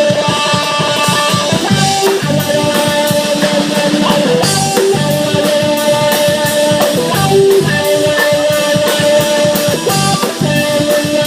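Live rock band playing a jam: electric guitar lead with long held notes over drum kit and bass.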